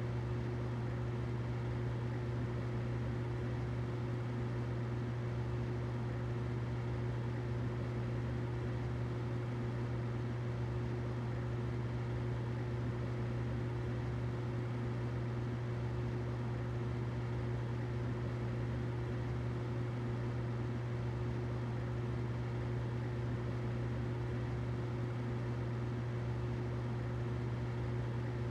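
Humidifier running with a steady low hum and a faint hiss over it.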